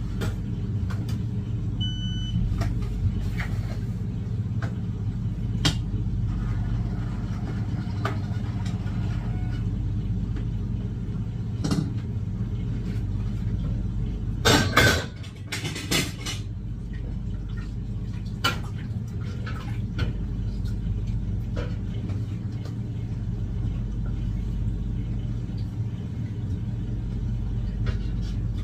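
A steady low mechanical hum, like an engine or generator running, under scattered clicks and knocks. A short beep comes about two seconds in, and a loud burst of clattering about halfway through.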